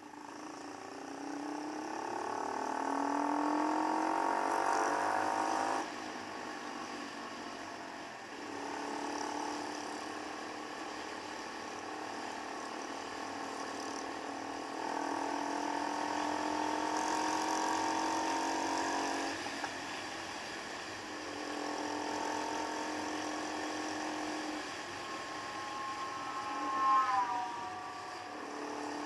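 Keeway Superlight motorcycle engine under way, its pitch climbing as it accelerates, then dropping sharply as the throttle is closed or a gear is changed, in several spells of acceleration and steady cruising. Near the end there is a brief, louder tone that falls in pitch.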